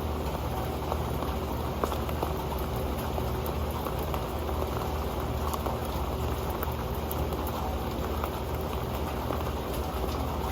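Rain falling onto an old pan: a dense, steady patter of many small drop hits.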